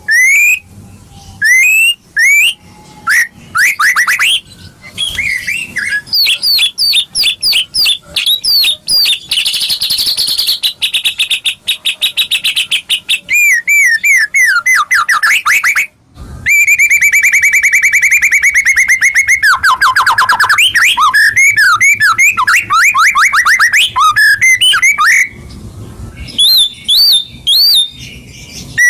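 White-rumped shama (murai batu) song: loud, varied whistled phrases and fast repeated trilling notes, with a brief pause about halfway through. It is a 'pancingan' recording, meant to provoke a captive shama into singing.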